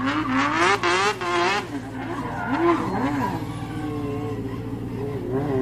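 Racing-car sound effect: an engine revving, its pitch rising and falling, with a high screeching layer over the first second and a half.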